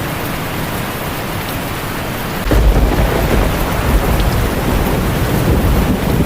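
Heavy rain drumming steadily on a tin roof. About two and a half seconds in, a deep rumble of thunder sets in suddenly and keeps rolling under the rain.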